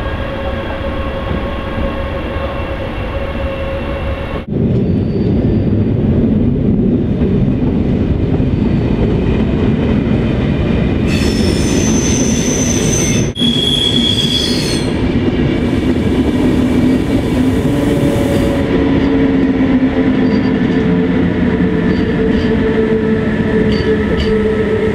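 SBB electric trains rolling through a station close by, a steady rumble of wheels on the track, with two abrupt cuts. About halfway through comes a stretch of high-pitched wheel squeal. Near the end a steady low hum comes from a passing red SBB Re 460 electric locomotive.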